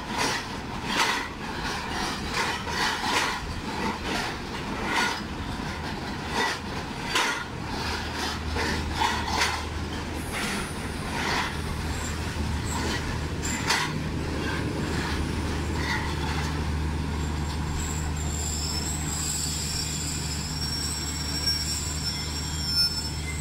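Passenger train coaches rolling slowly through a station, wheels clacking over rail joints in an irregular run of knocks. About a third of the way in a steady low hum sets in, and a faint high-pitched wheel squeal joins it near the end.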